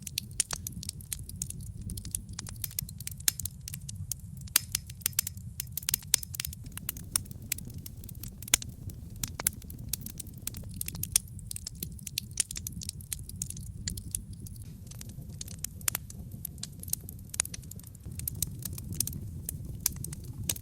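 Wood logs burning in a brick fireplace: a steady low rumble of flame under dense, irregular crackles and sharp pops.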